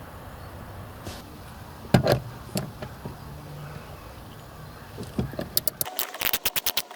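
Car interior work: a sharp knock about two seconds in and another shortly after, then a quick run of sharp clicks near the end, typical of plastic trim and fittings being handled and unclipped.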